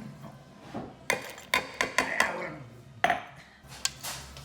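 Kitchen clatter: a run of sharp knocks and clinks of utensils against dishes and bowls, with a last lone click near the end.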